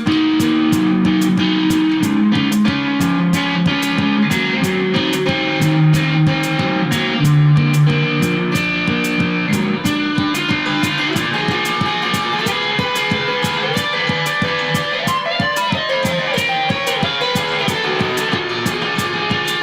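Electric guitar music from a Reville Q90 guitar played through a Kustom PH1012 amp: an instrumental passage of held notes over a steady rhythmic pulse.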